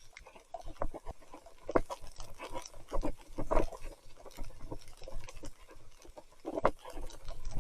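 Mountain bike ridden through thick, sticky mud: irregular squeaking and squelching bursts every second or so, the loudest about two, three and a half and six and a half seconds in. Mud is packing the wheels and drivetrain, enough to drag the bike to a halt as soon as pedalling stops.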